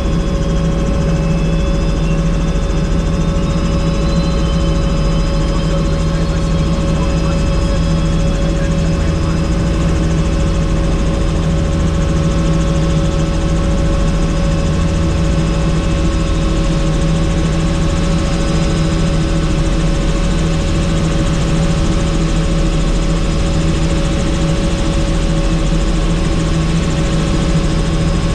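Helicopter in steady cruising flight: a loud, constant rotor and engine drone with several steady held tones, unchanging throughout.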